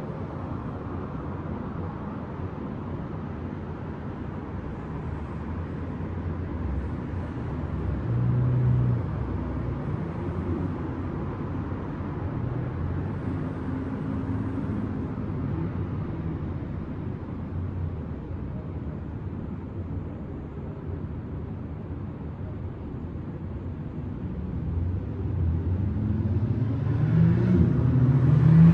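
City street traffic at night: a steady low hum of vehicles with engine drones. It swells briefly about a third of the way in, and grows louder near the end as a vehicle approaches.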